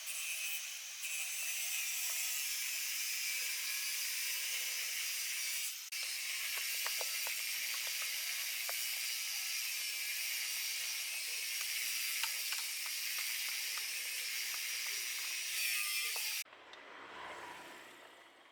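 A steady hiss with scattered light clicks and ticks of mechanical work, briefly broken about six seconds in. About sixteen seconds in the hiss stops and a short noise fades away.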